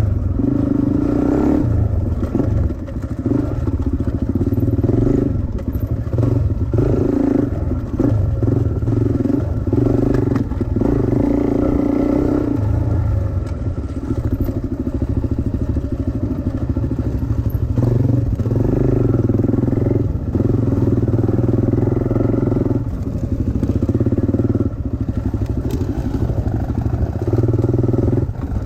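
Small dirt bike engine being ridden, the throttle opened and closed again and again, so the engine rises and falls every second or two.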